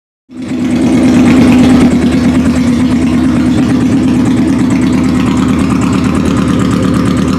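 Yamaha YZF-R1's inline-four sportbike engine running at idle through a straight-pipe exhaust, with a fast, even pulsing. It cuts in suddenly just after the start and swells slightly before settling steady.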